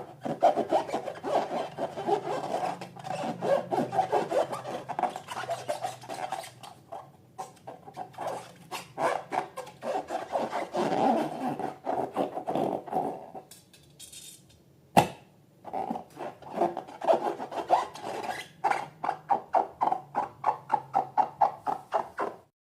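Hands rubbing and working balloon and slime material in quick, even strokes, about three a second. The strokes pause briefly, then a single sharp snap comes about fifteen seconds in.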